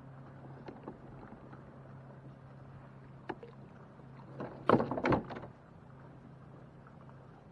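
Kayak on the lake with a steady low hum underneath. A quick cluster of loud knocks and clatter, like gear handled against the hull, comes about five seconds in, after a single sharp click a little earlier.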